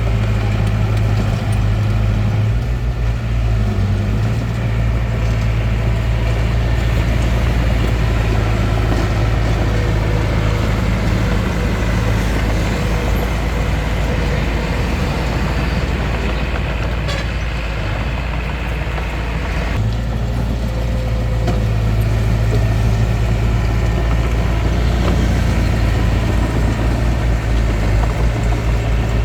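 Hitachi DX45M bulldozer's diesel engine running steadily as it works. The engine eases off for several seconds in the middle, then comes back up to full strength.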